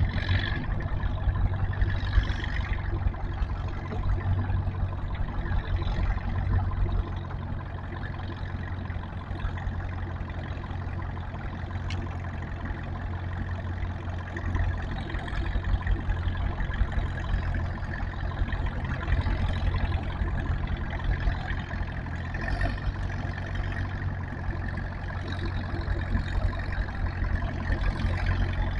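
Tractor engine running steadily under a constant throttle, a little louder during the first seven seconds and again near the end.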